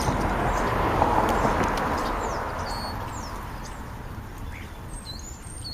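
A vehicle passing by: a broad rush of noise swelling to its loudest about a second in, then slowly fading away. A few short, high bird chirps come near the end.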